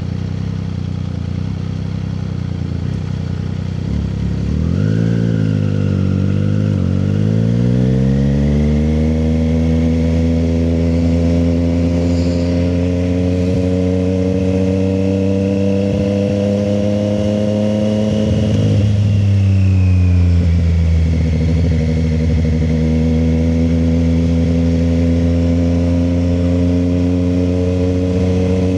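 Triumph Street Triple 765 RS's inline three-cylinder engine running on the move. It is steady at first, its pitch wavers up and down about five seconds in, and then it climbs slowly in revs. The revs drop sharply about nineteen seconds in, then climb gently again.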